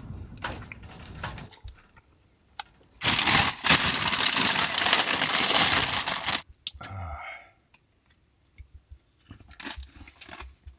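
A person chewing and eating, with small scattered clicks. About three seconds in, a loud rushing noise lasts about three seconds and then cuts off suddenly.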